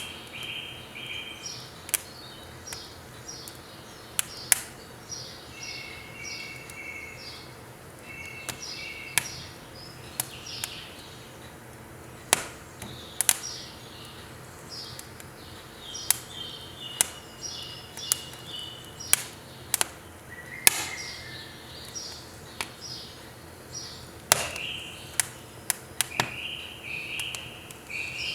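Burning firewood crackling, with sharp irregular pops every second or so, while small birds sing in repeated phrases of short, high chirps.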